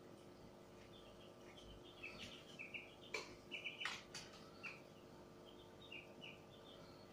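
Faint high chirps in quick little series, like a small bird, over a faint steady hum, with three sharp clicks about three to four seconds in.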